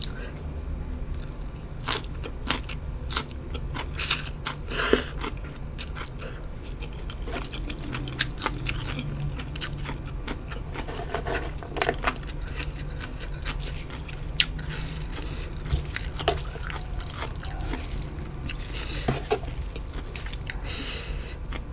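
Close-miked eating: chewing with many sharp crunching bites, the loudest about four and five seconds in, over a steady low hum.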